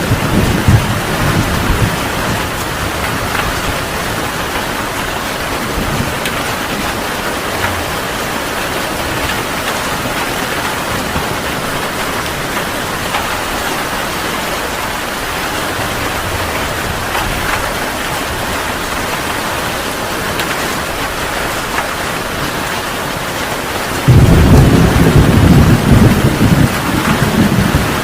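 Heavy rain falling steadily, with a low rumble of thunder dying away in the first couple of seconds. A loud thunder roll breaks in suddenly near the end and keeps rumbling.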